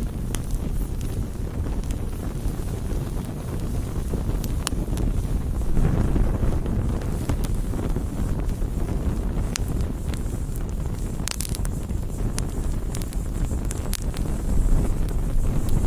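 Wood campfire burning, a steady low rumble of flames with scattered sharp crackles and pops. The rumble swells about six seconds in, and a cluster of louder pops comes around eleven seconds in.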